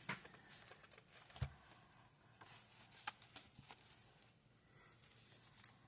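Faint paper rustling with a few soft taps as the pages of a handmade paper journal are handled and turned.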